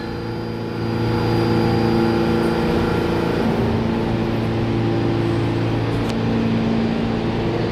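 New York City subway train at the platform, giving a steady low hum with several steady tones that grows a little louder about a second in.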